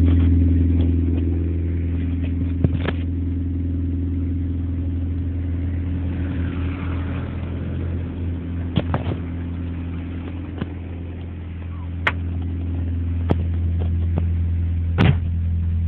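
Honda ESi sedan's four-cylinder engine idling steadily during a cold start. Its note eases slightly through the middle and then picks up again, with a few sharp clicks over the top.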